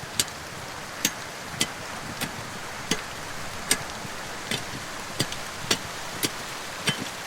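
A steady hiss with sharp, irregular clicks over it, roughly two a second.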